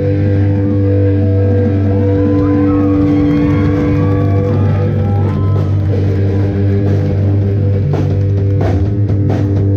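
Live rock band playing: guitar and bass hold a long sustained chord with wavering higher guitar notes over it, and a few drum hits come in near the end.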